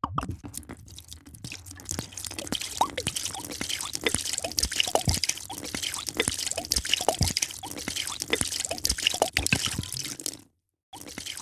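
A drink being poured: a steady splashing stream of liquid with many small bubbly plinks, which stops abruptly near the end.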